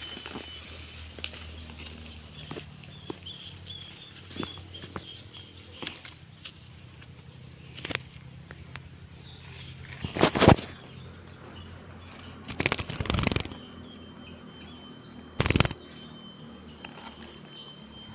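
Steady high-pitched drone of forest insects, with a few short, loud rustling noises about ten, thirteen and fifteen seconds in.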